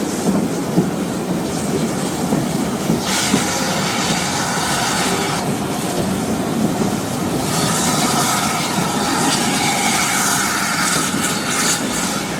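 Steam-hauled heritage passenger train running on the rails, with the rumble and clickety-clack of the carriage wheels. A high squeal of wheels on the curving track joins in twice, about three seconds in and again about halfway through.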